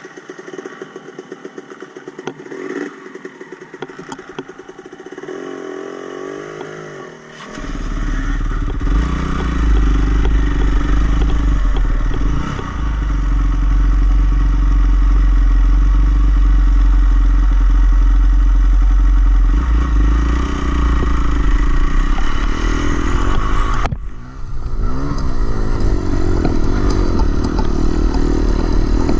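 Dirt bike engine running while the bike is ridden over a trail, with some clatter. It is lighter for the first several seconds, then much louder and heavier with a deep rumble from about seven seconds in, dipping briefly about three quarters of the way through.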